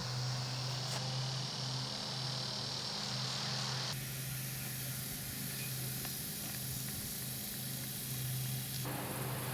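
Steady hiss of outdoor background noise over a low, even hum. The hiss changes abruptly about four seconds in and again near the end.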